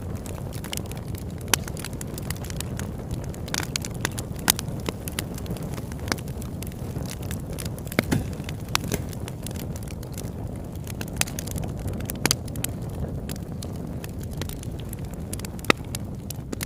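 Campfire burning, wood crackling and popping in irregular sharp snaps over a steady low rush of flame.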